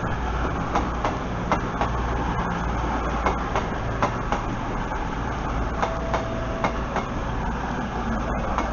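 Passenger train running along the platform, with a steady rumble and sharp wheel clicks over rail joints every half second to a second.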